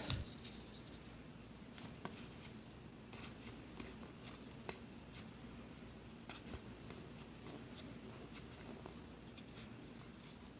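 Baseball cards being handled and flipped through one by one: faint, irregular soft ticks and slides of card against card.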